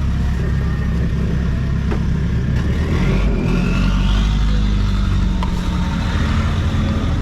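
Motor vehicle engine running close by, its pitch rising as it revs up about three seconds in.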